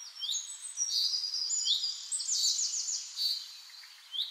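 Birds singing: a mix of chirps and whistles, with several short rising calls and a quick run of notes about halfway through.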